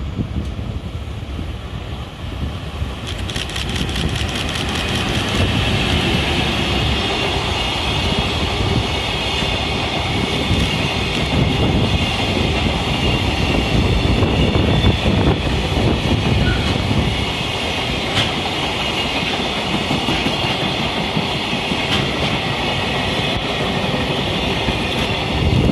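A freight train hauled by an EF210 electric locomotive running past: a steady rumble of wheels on rail with a rapid, regular clicking over the rail joints. It grows louder about three seconds in and then holds steady.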